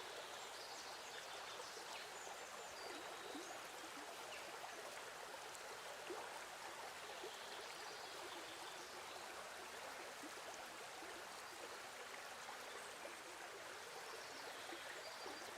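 Faint, steady rushing noise.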